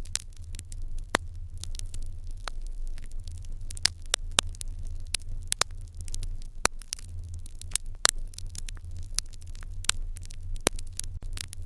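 Wood fire in an irori hearth crackling, with frequent sharp, irregular pops over a low steady rumble.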